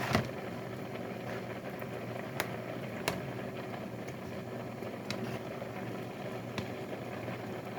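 Steady low hum of a running appliance, with a few light clicks and taps scattered through it.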